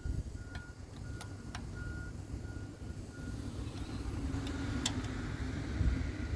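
An electronic beep repeating evenly, about once every 0.7 seconds, over low rumbling noise, with a few sharp clicks.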